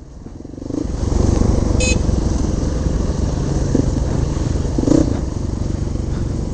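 A four-stroke single-cylinder trail bike engine riding up a muddy lane. It is quiet at first, opens up about a second in, then runs steadily under load.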